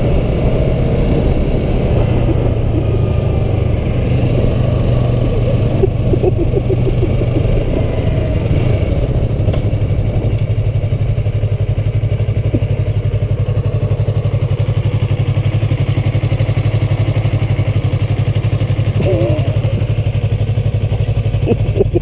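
Sport motorcycle engine running at a steady cruising speed with no revving, a constant low drone under road and wind noise, heard from the rider's seat.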